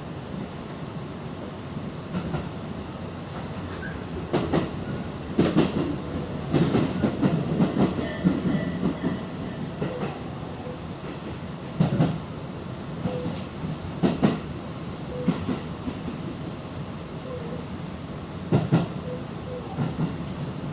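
Tobu 10050-series electric train running, heard from inside the passenger car: a steady low rumble with sharp clacks of the wheels over rail joints at uneven intervals.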